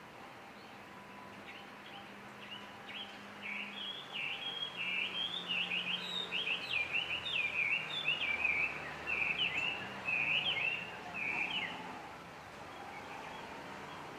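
A wild songbird singing a long, rapid warbling song of quick, varied high notes, starting about two and a half seconds in and stopping a couple of seconds before the end, over faint steady outdoor background noise.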